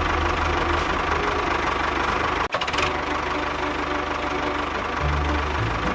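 A small engine running steadily. The sound drops out for an instant about two and a half seconds in, and music with a bass line comes in near the end.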